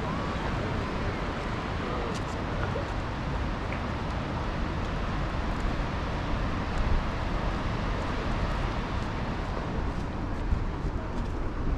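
Steady rushing noise, even and unbroken, strongest in the low end.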